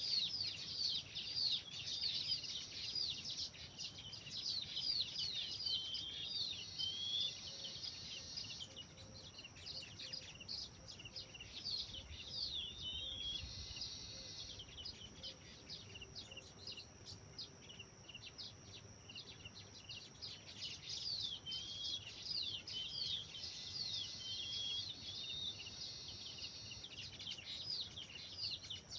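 Small songbirds chirping and singing together in a busy chorus of quick, high chirps and short downward-sweeping notes. The chorus thins out through the middle and picks up again near the end.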